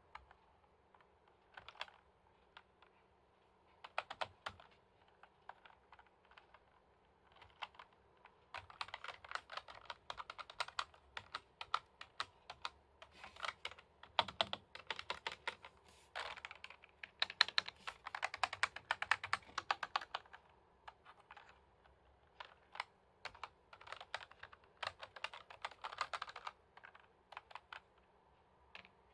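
Typing on a computer keyboard. A few scattered keystrokes come first, then a long run of fast continuous typing, then a few shorter bursts of typing toward the end.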